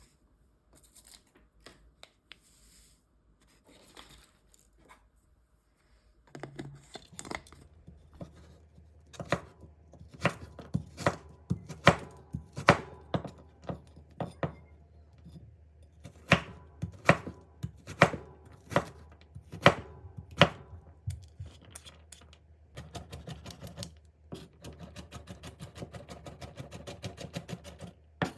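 Kitchen knife chopping food on a cutting board: evenly spaced strokes about one a second, then a quick, rapid run of light chops near the end.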